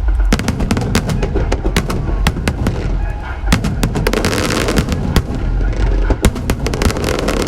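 Fireworks going off in rapid succession: many sharp bangs and crackles over a deep rumble, with a dense burst of crackling about four seconds in. Music plays underneath.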